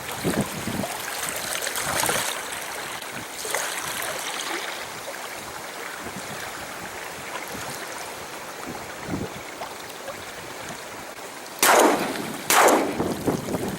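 Wind rushing over the microphone, then two shotgun shots about a second apart near the end.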